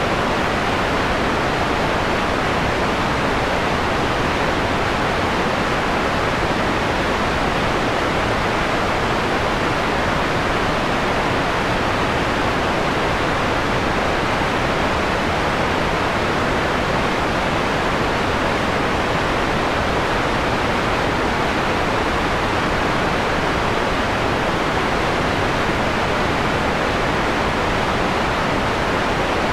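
Steady electronic white noise with the highs rolled off into a softer, mellower hiss, even and unchanging throughout.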